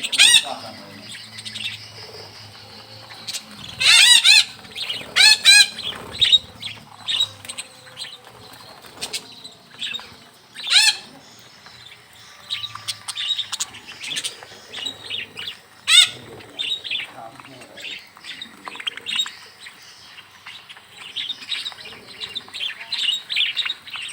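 A flock of budgerigars chattering with many quick chirps, a few louder calls standing out, and wings fluttering as birds fly about.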